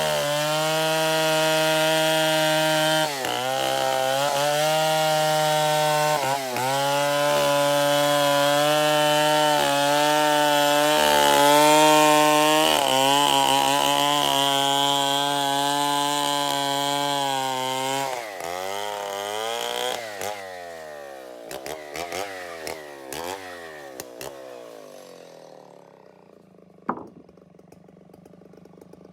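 Stihl 070 two-stroke chainsaw running at full throttle while cutting binuang wood, its pitch dipping briefly a few times as the chain loads up. About eighteen seconds in, the throttle is released and the engine winds down with a few falling revs, then settles to a faint idle; a single sharp knock comes near the end.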